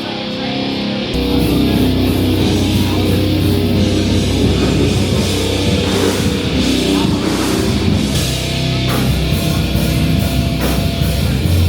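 Heavy rock music with distorted electric guitar and drums, coming in loud about a second in.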